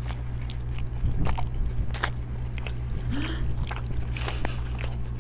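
Close-up biting and chewing of a burger, with a stream of short wet clicks and crackles as the bun and patty are chewed, picked up by a small lavalier microphone held right at the mouth. A steady low hum runs underneath.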